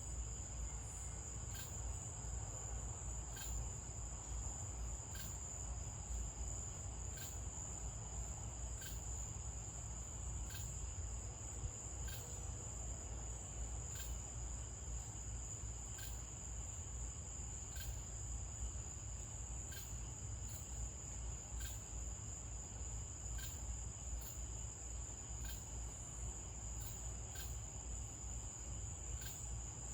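Night insects, crickets, trilling in a steady high-pitched chorus, with a short chirp repeating about every two seconds over a low background rumble.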